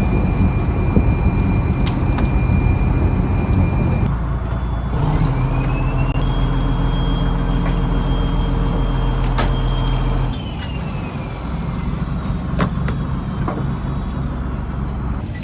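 A trawler's diesel engine and machinery running with a steady low hum and a whine above it. About five seconds in the pitch rises as it speeds up, holds, then falls away from about ten seconds in.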